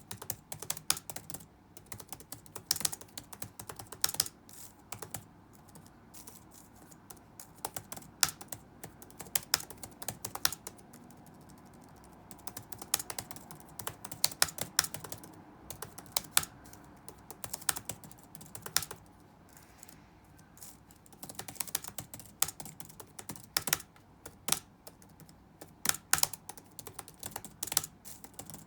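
Typing on a computer keyboard: rapid key clicks in irregular bursts, broken by short pauses of a second or two.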